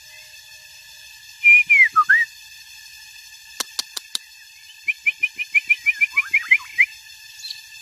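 White-rumped shama singing: a couple of loud whistled, gliding notes, then four sharp clicks in quick succession, then a fast run of short whistled notes.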